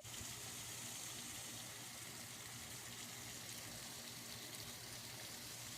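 Faint, steady outdoor background noise: an even hiss with a low constant hum underneath.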